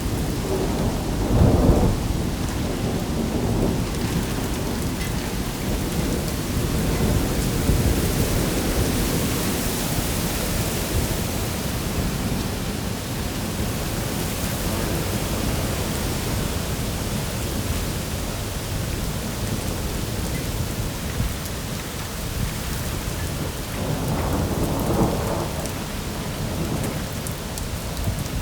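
Heavy rain pouring down in a storm, a steady loud hiss. Low rumbles swell up about a second in and again near the end.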